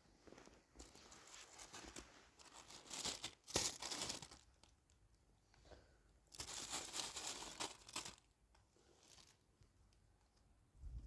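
Plastic sheeting crinkling and rustling as it is handled, in two spells of irregular bursts, the louder one about three to four seconds in.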